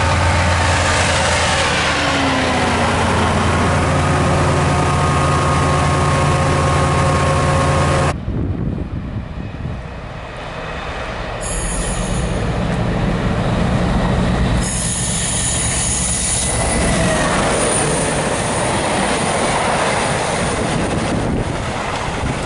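Class 68 diesel-electric locomotive's Caterpillar V16 engine running close by as it passes, with a steady low drone and several steady higher tones. About eight seconds in this cuts off suddenly; a second train then approaches and runs through the station, with rising wheel and rail noise and a thin high squeal.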